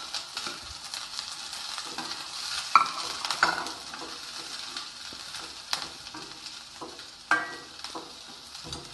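Fried chicken being stirred and tossed with a spatula in a kadai of hot oil: steady sizzling, broken by sharp scrapes and knocks of the spatula against the pan, the loudest about three seconds in and again past seven seconds.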